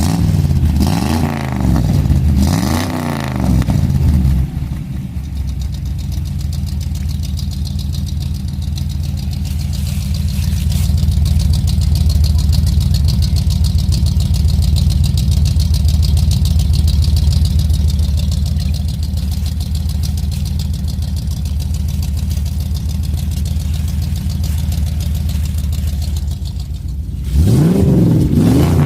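Ford 302 small-block V8 truck engine with a newly hung exhaust, blipped twice, then idling steadily for over twenty seconds, then revved again near the end.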